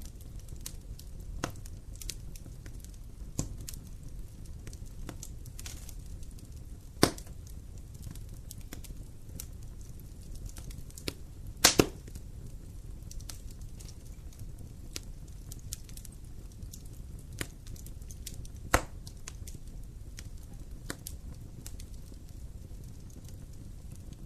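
Campfire burning, wood crackling with scattered sharp pops over a low steady rumble; the loudest pops come about seven seconds in, a quick double pop near the middle, and one more a little later.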